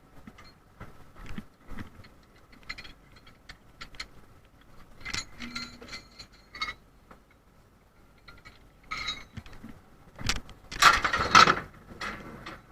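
Irregular metallic clanking and rattling of a fishing boat's deck gear, over a faint steady whine. A loud burst of clatter comes about eleven seconds in.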